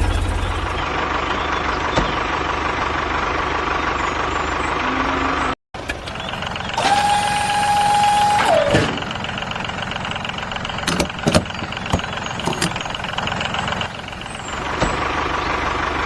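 Tractor engine running, broken by a sudden cut about five and a half seconds in. After the cut comes a steady tone for about a second and a half that drops in pitch as it ends, then a few sharp clicks.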